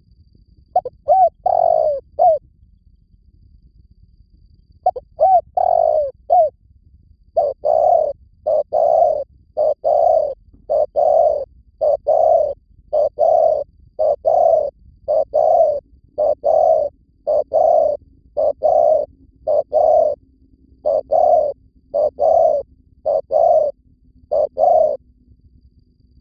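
Spotted dove cooing, a decoy song used to lure wild doves: two short phrases, then from about seven seconds in a long run of repeated coos about one a second. Faint high chirps sound along with them.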